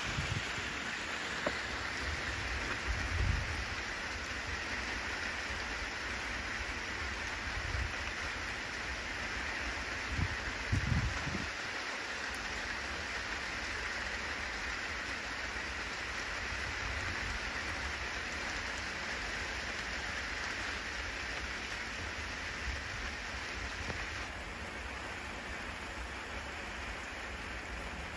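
Steady rain falling, a continuous even hiss. Brief low rumbles come about three seconds in and again around ten to eleven seconds.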